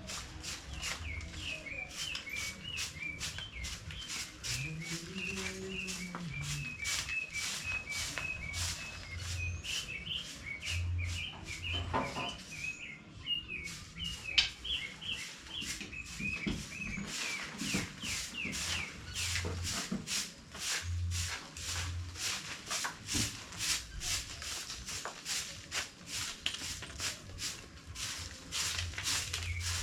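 Chickens chirping continuously in short, repeated high calls, over many short scratchy strokes.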